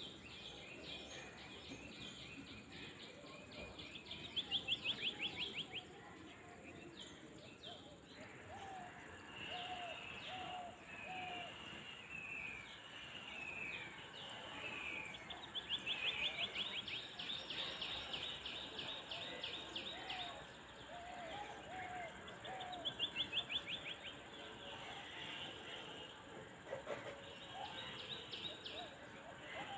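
Several birds calling and singing over a steady outdoor hiss. The loudest are rapid high trills about four seconds in, again from about sixteen to nineteen seconds, and once more near twenty-three seconds. Between them come short repeated slurred notes and lower calls.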